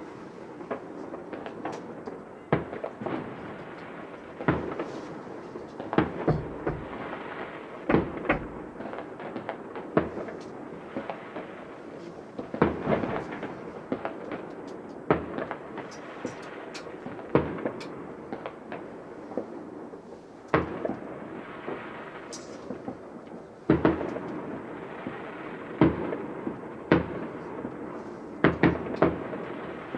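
Fireworks display: shells bursting in a long run of sharp, echoing bangs at irregular spacing, sometimes several close together, over a continuous din of smaller bursts.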